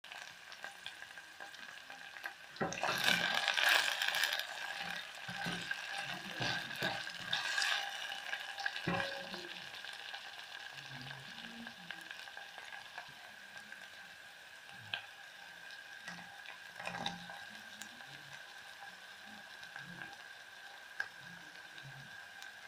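Sliced red onions and tomato paste sizzling in hot oil in a stainless steel pot as they are stirred, with louder bursts of sizzling and scraping about three to four seconds in and again around eight seconds, and a few sharp clicks of the spoon on the pot later on.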